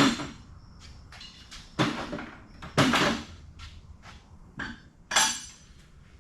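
Sharp metallic clanks and knocks of tools and mower parts being handled, four or five separate strikes with a short ring after each.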